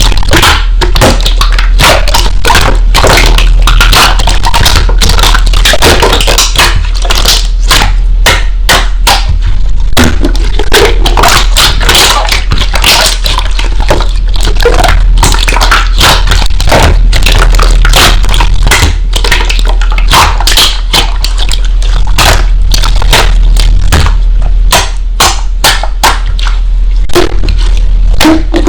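Slime being squeezed and pressed by hand, making a dense, irregular run of crackling pops and clicks over a steady low hum.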